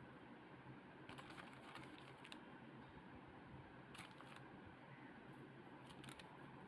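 Near silence: a faint steady low hum with a few soft, light clicks scattered through it.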